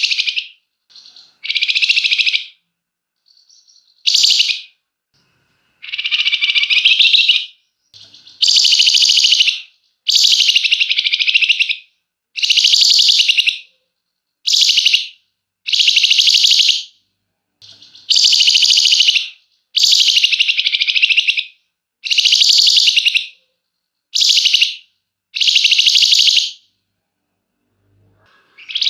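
Flamboyan bird singing in its 'ngebren' style: long, rapid, rattling trills, each lasting about a second or more and repeated roughly every two seconds.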